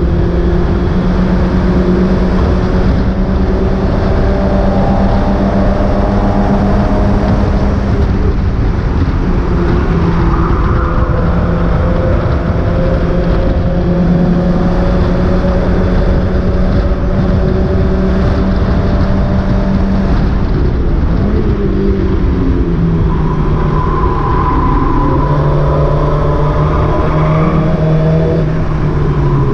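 Mazda MX-5 race car engine running at steady revs under load, its pitch dropping about 22 seconds in and holding lower. The car is running with a misfire.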